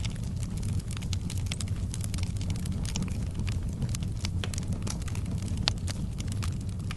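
Wood fire burning in a fireplace: a steady low rumble of the flames with frequent sharp crackles and pops from the burning logs, one louder pop about five and a half seconds in.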